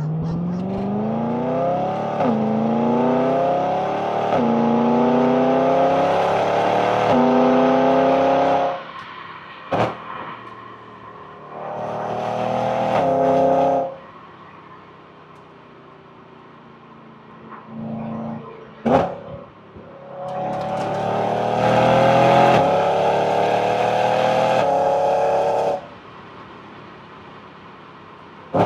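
BMW E92 M3's 4.0-litre V8 accelerating hard through the gears, its pitch climbing and dropping sharply at each quick dual-clutch upshift about every two seconds. It lifts off and goes quieter, with single sharp cracks from the exhaust, then makes a short rev and a second long pull with rising pitch that cuts off suddenly.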